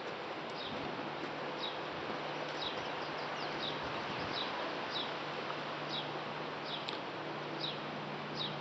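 Outdoor wind noise with a small bird chirping over and over, short high falling notes a little faster than once a second, and a steady low hum joining about a second in.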